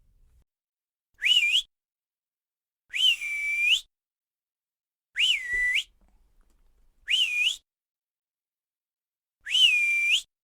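Whistling: five short whistled calls a second or two apart. Each one jumps up, dips, holds a steady note, then slides up at the end.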